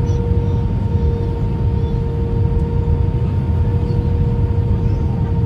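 Steady cabin noise of an Airbus A319 airliner: a low rumble of engines and airflow with a steady hum running through it.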